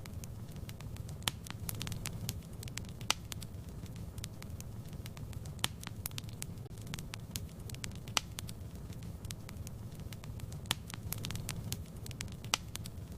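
Wood fire crackling in a fireplace: a steady low rumble of flames with frequent small crackles and a few sharper pops every couple of seconds.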